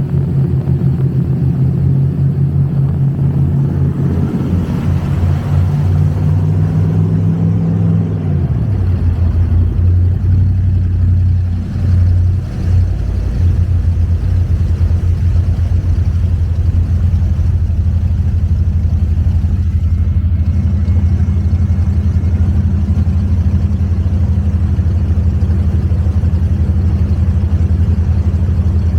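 Twin V8 engines of an Avanti 33 power boat running hard, then dropping in pitch about eight seconds in as the revs come down, settling into a steady lower drone.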